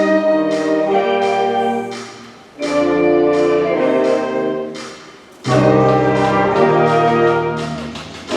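Wind band playing loud sustained brass chords. Three chords enter one after another, at the start, about two and a half seconds in and about five and a half seconds in, and each fades before the next. Under them runs a steady pulse of struck notes, about three a second.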